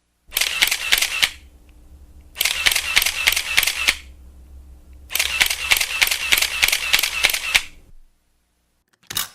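Camera shutter sound effect firing in continuous bursts: three runs of rapid clicks at about six a second, the last the longest, then a single shutter click near the end.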